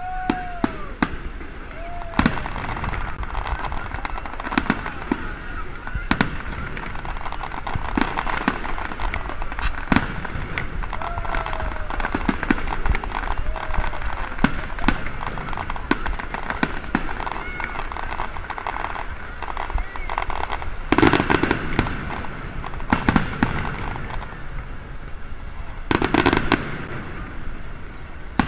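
Aerial fireworks shells bursting in quick succession, a run of sharp bangs and crackles, with two heavier, longer bursts in the last third. A crowd murmurs throughout.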